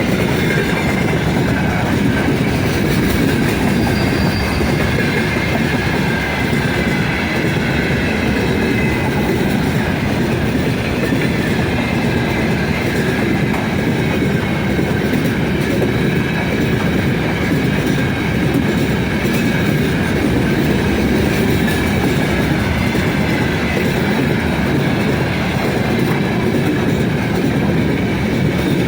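Freight train rolling past at speed: a steady, loud rumble of wheels on rails with rail-joint clatter, and high ringing tones from the wheels that slowly fall in pitch.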